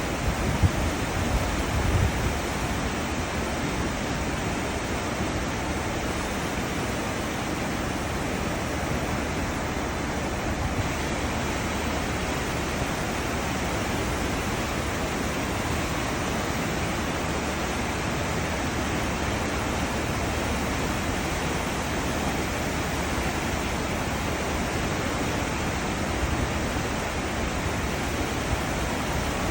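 Cruise ship's wake: a steady rush of churning seawater, with a couple of low bumps in the first two seconds.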